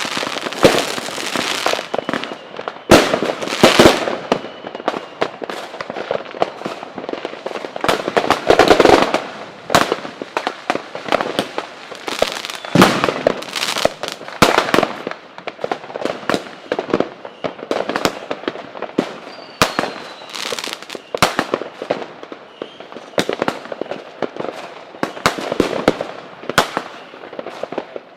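Fireworks display: a continuous run of bangs and crackling bursts, one after another, with a few faint whistles among them. The loudest volleys come a few seconds in, about nine seconds in and about thirteen seconds in.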